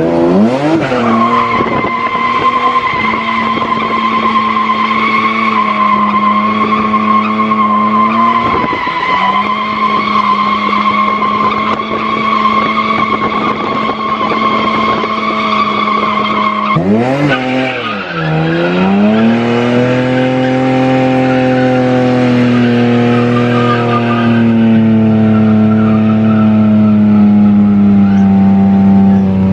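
Car drifting: the engine is held at high revs while the tyres squeal steadily. About 17 seconds in, the squeal stops and the revs drop and climb again.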